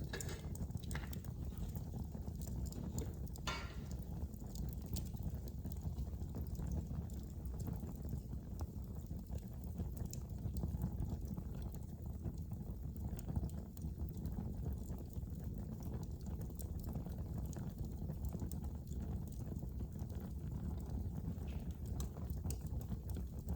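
Wood fire crackling in a fireplace: a steady low rumble of the flames with scattered sharp pops and snaps, one louder pop about three and a half seconds in.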